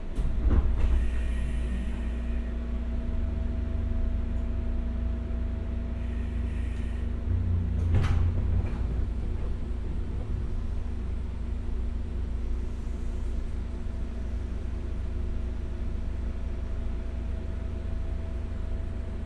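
Running sound inside a JR West 201-series electric commuter train: a steady low rumble of the wheels on the rails with a steady hum over it. Sharp clacks come right at the start and again about eight seconds in.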